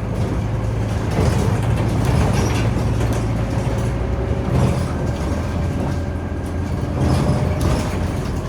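Scania OmniCity city bus under way, heard from on board: a steady low diesel engine drone with occasional short knocks and rattles.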